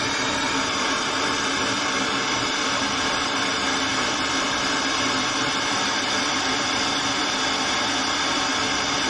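Gas blowtorch flame burning steadily, heating an oil-line fitting for silver soldering.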